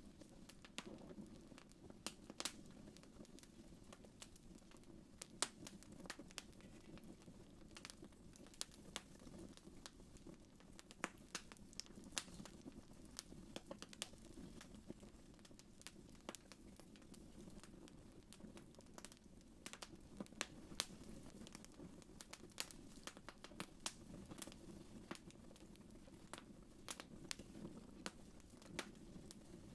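Wood fire crackling softly in a fireplace: irregular sharp snaps and pops, several a second at times, over a low steady rumble.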